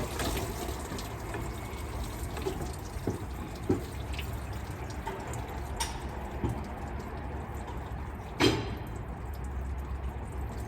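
Scattered clicks and small knocks of hand tools working on an engine being dismantled, with one louder knock about eight seconds in, over a steady low hum.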